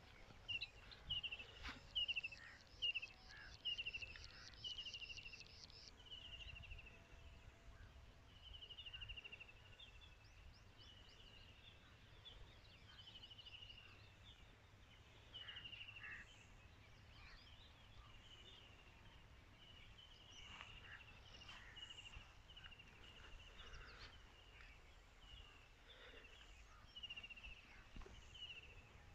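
Faint birdsong: one bird repeats a short falling whistle about once a second, and for the first few seconds a second bird adds a fast high trill. A faint low rumble lies underneath.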